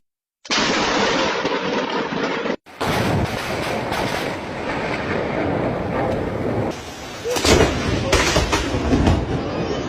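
Thunderstorm: a steady roar of heavy rain with rolling thunder, and two loud thunder cracks about seven and a half and eight seconds in. The sound cuts out abruptly twice near the start.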